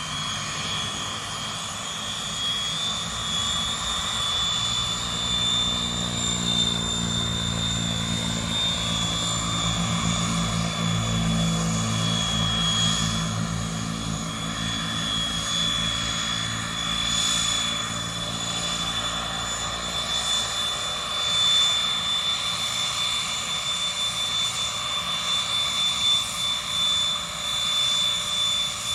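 The Rolls-Royce Dart turboprop engines of a YS-11 running: a steady high-pitched whine over a lower propeller drone. The drone swells and shifts in pitch about a third of the way in.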